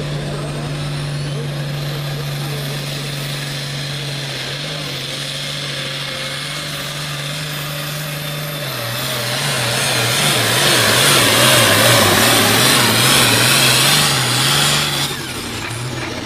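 Hot farm class pulling tractor's diesel engine running hard under load, with a steady low drone throughout. The sound swells much louder about nine seconds in, then drops back suddenly near the end.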